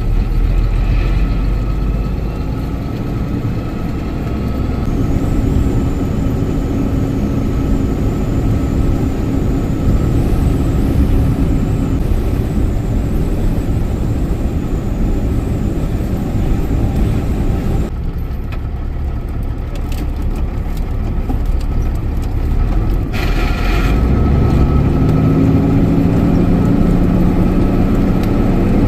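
Truck engine running on the road with a steady low rumble; near the end its pitch climbs as it accelerates.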